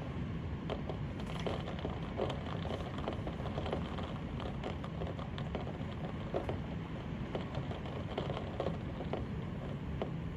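Heavy rain falling steadily, with many close drops tapping sharply among the even hiss.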